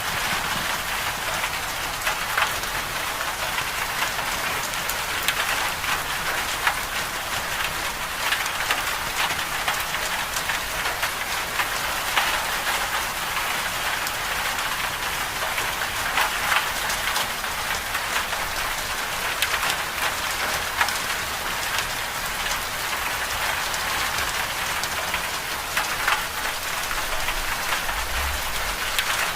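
Steady moderate rain falling, a continuous hiss with many individual drops tapping sharply through it.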